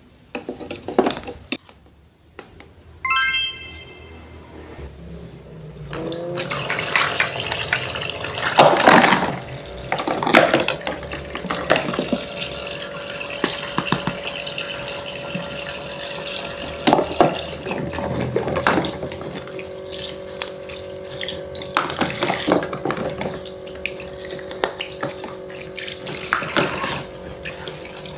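A few clicks and a short high chime, then from about six seconds in a steady rush of water running from a small tap into a sink, with a faint steady hum beneath it.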